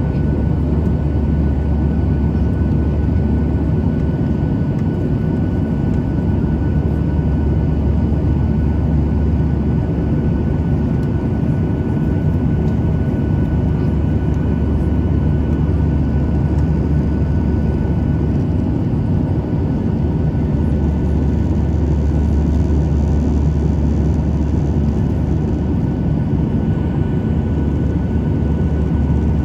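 Boeing 737-800 cabin noise in flight: the CFM56 jet engines and airflow make a steady low drone with a faint steady whine on top.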